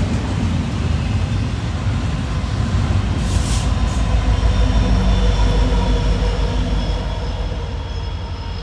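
Freight train rolling past: a steady, loud low rumble of wheels on rail that eases off after about seven seconds. A short hiss comes about three seconds in, and faint thin whining tones from the wheels come from about four seconds on.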